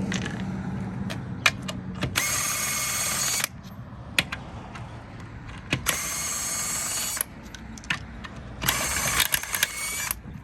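Impact wrench spinning lug nuts off a truck wheel in three bursts of just over a second each, with sharp metal clicks of the socket and nuts between bursts.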